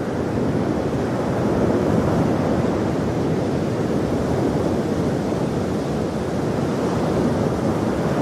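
Ocean waves washing on a shore in a steady, unbroken rush of surf.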